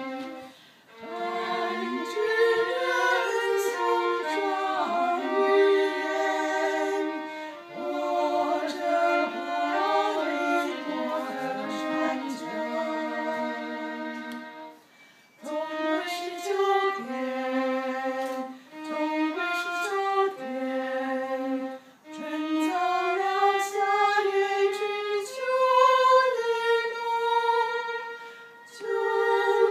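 A bowed string instrument playing a slow solo melody in phrases, with held notes that slide between pitches and short pauses between phrases.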